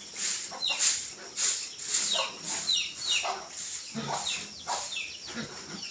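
Birds cheeping: short high calls, each falling in pitch, two or three a second, with sharp clicks among them.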